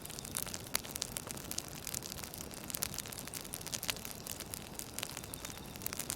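Campfire burning, with many irregular sharp crackles and pops of burning wood over a steady hiss.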